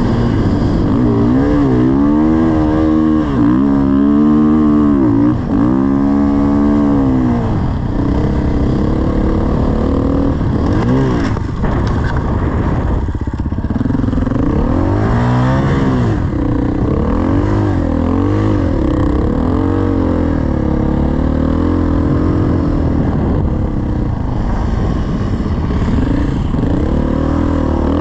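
Dirt bike engine under way, its revs rising and falling again and again as the throttle is worked. There is a quick run of swings a few seconds in, a steadier stretch in the middle, then more ups and downs.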